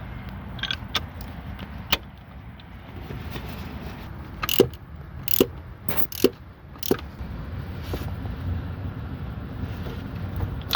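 A metal wrench clinking against the reverse light switch and gearbox as it is worked loose: about eight sharp clinks, most bunched together about halfway through. A low steady rumble runs underneath.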